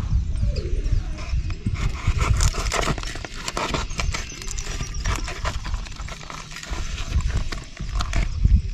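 A run of irregular sharp clicks and light knocks, like handling or working something by hand, over a steady low rumble.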